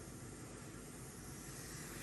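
Faint steady hiss of room tone, with no distinct event.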